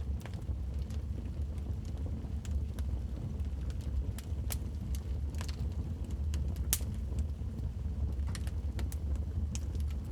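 Wood fire crackling, with irregular sharp pops, one louder snap about two-thirds of the way in, over a steady low rumble.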